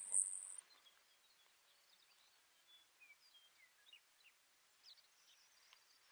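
Baird's sparrow song: a high, buzzy trill that cuts off about half a second in. Faint, scattered short chirps follow.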